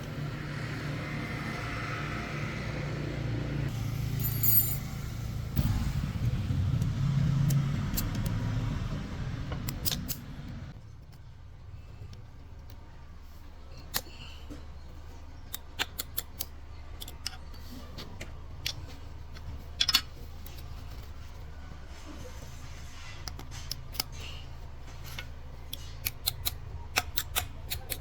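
A motor runs with a steady low hum and cuts down about ten seconds in. After that come scattered metallic clicks and taps, then a quick run of clicks near the end.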